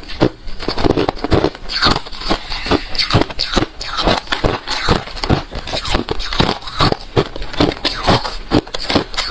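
Close-miked crunching of hard refrozen crushed ice being bitten and chewed, a rapid irregular run of sharp crunches, several a second.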